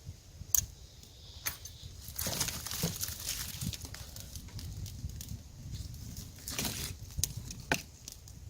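Campfire being lit and catching: kindling crackling, with a few sharp snaps, the crackling thickening from about two seconds in.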